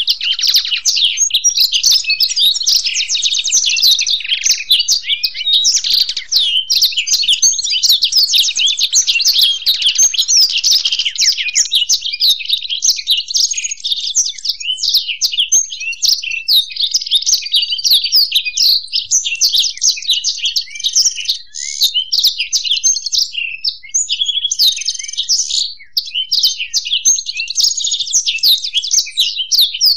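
Black-throated canary (blackthroat) and European goldfinch singing together in one unbroken stream of rapid twittering song with fast trills.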